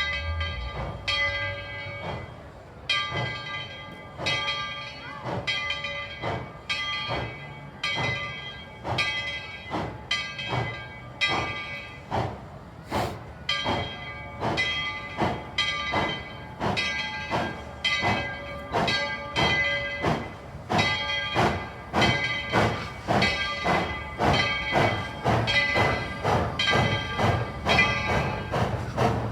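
Steam locomotive's bell ringing over and over, about two strikes a second, as the train runs.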